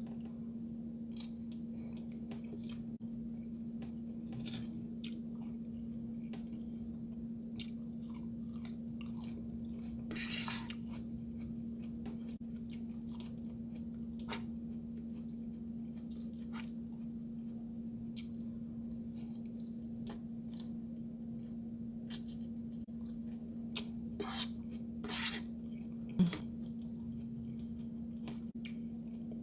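Close-miked chewing and mouth sounds of someone eating a pasta dish, with scattered small clicks and one sharper knock near the end, over a steady low hum.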